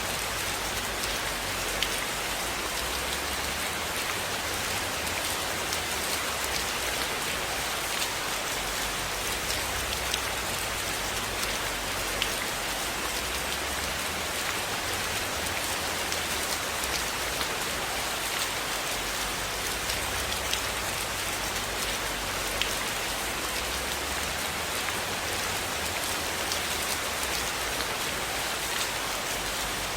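Steady rain falling and pattering on a surface, an even hiss with many small scattered ticks and pops throughout.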